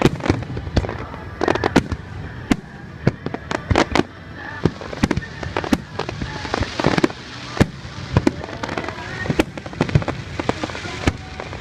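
Aerial fireworks bursting in a rapid, irregular series of sharp bangs, about two or three a second, with crackling between them.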